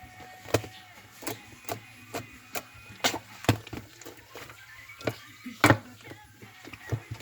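A series of irregularly spaced sharp knocks, about a dozen, with the loudest a little past halfway.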